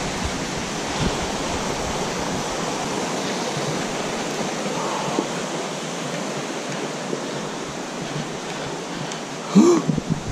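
Steady rushing noise of a waterfall. A short vocal sound breaks in near the end.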